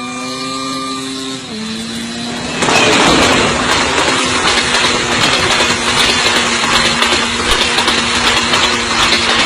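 A train's engine hums steadily with a pitched drone that dips slightly in pitch about a second and a half in. Nearly three seconds in, a loud, hissing rush starts and keeps going over the hum.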